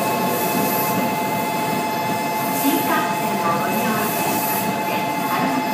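Tokaido Shinkansen train rolling slowly alongside the platform: a steady rumble of wheels and running gear with a steady whine over it.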